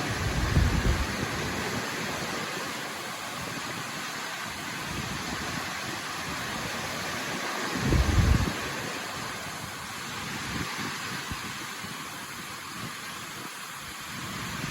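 Steady rushing roar of a large waterfall. Two brief low thumps on the microphone, about half a second in and again about eight seconds in.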